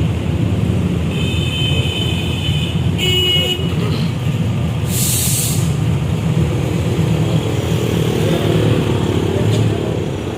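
Steady low rumble of vehicles running, with a horn tooted twice in the first few seconds and a short hiss about five seconds in.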